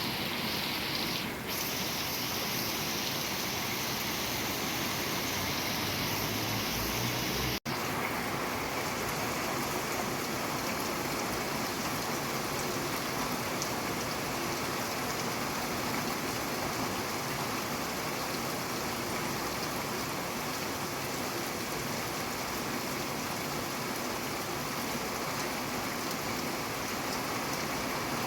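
Steady rain falling. About seven and a half seconds in, the sound cuts out for a split second, as at a splice between recordings, and afterwards the rain sounds a little less hissy.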